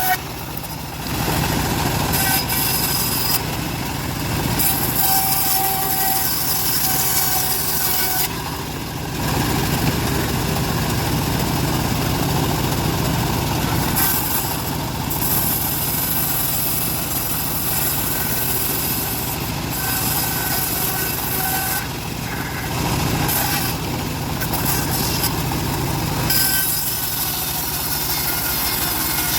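Homemade bandsaw mill running and sawing through a log: a steady machine drone with the hiss of the blade cutting the wood. The high hiss drops away briefly several times and then comes back.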